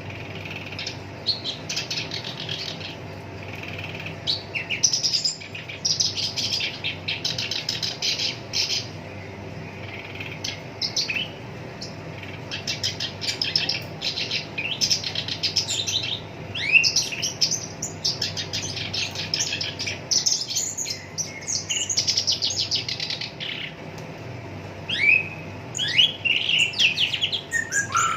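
Black-browed reed warbler singing: bursts of fast, rattling, chattering notes in varied phrases a few seconds long, with short pauses between them and a few quick pitch sweeps near the end. A faint steady low hum runs underneath.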